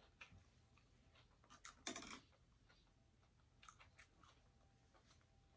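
Faint close-up chewing and mouth clicks from a person eating, with a louder smack about two seconds in.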